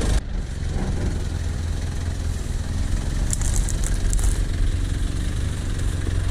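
Off-road 4x4's engine idling steadily, with a few light clicks a little past the middle.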